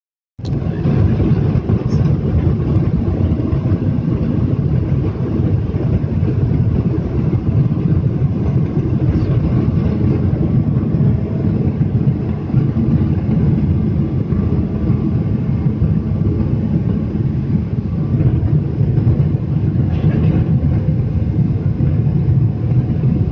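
Passenger airliner landing: a loud, steady low rumble of jet engines and airflow, with a few faint steady tones above it.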